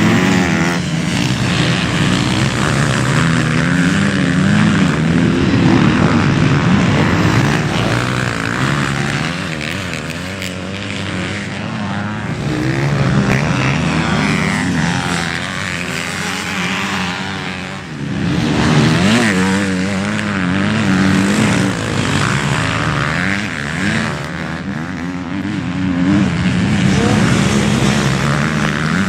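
Motocross bike engines revving hard and backing off over and over, their pitch rising and falling with the throttle and gear changes. They ease off briefly about eighteen seconds in, then pick up again.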